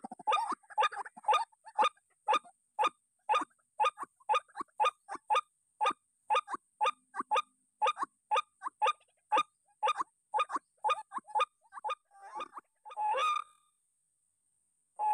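White-breasted waterhen calling: a long run of short, evenly repeated notes, about three a second at first and slowing to about two a second. It ends in a couple of rougher, longer notes and then stops.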